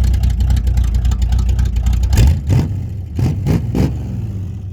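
Car engine running close by with a steady low rumble and rapid exhaust pulses. Just past halfway it eases off, a few short surges follow, and it fades away near the end.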